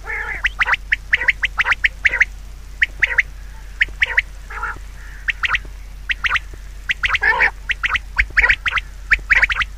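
Many short animal calls in quick, irregular runs, each only a fraction of a second long.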